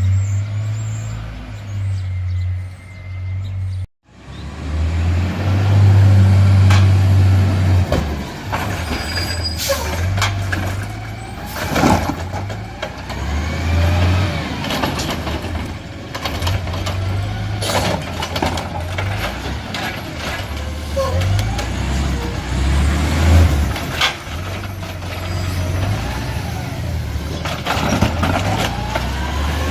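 Garbage truck running, its low engine note rising and falling, with repeated sharp clanks and bangs of the collection equipment. The sound cuts out for an instant about four seconds in.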